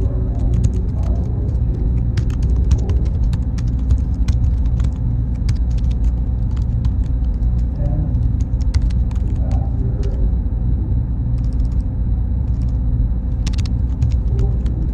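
Server-room ambience: a steady low rumble of cooling fans and machinery with a thin, faint high whine over it, and scattered light clicks throughout.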